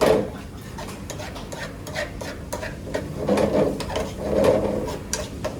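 Kitchen food-preparation sounds: a few rough scraping or rubbing strokes of a utensil, with sharp light knocks and clicks in between.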